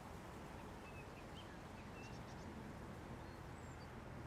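Faint outdoor ambience: a steady low rumble and hiss, with a few short, faint bird chirps now and then.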